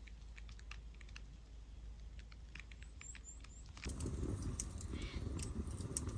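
Wood fire crackling, with irregular sharp pops and snaps over a low rumble; the crackling grows louder and fuller about four seconds in.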